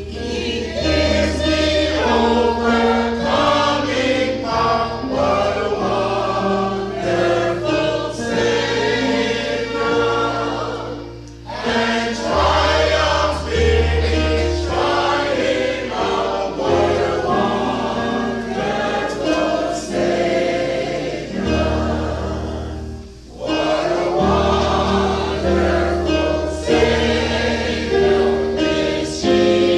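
A choir singing a gospel hymn over instrumental accompaniment with held bass notes; the music drops briefly twice, at phrase breaks.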